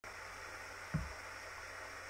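Light rain falling as a steady, even hiss, with a single short low thump about a second in.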